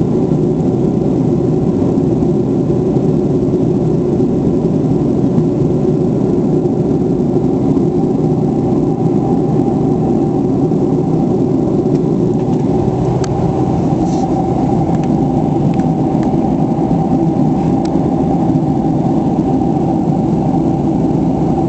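Steady roar of cabin noise inside a Boeing 757 airliner in flight, the engines and airflow making an even drone, with a few faint clicks in the second half.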